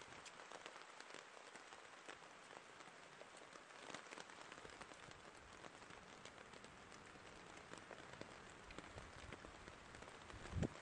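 Faint steady patter of light rain on foliage, many small scattered ticks over a soft hiss. A soft low thump near the end.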